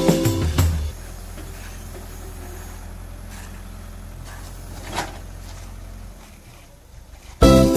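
Heavy diesel engine idling as a low, steady hum, with one sharp click about five seconds in. Music fades out at the start and comes back near the end.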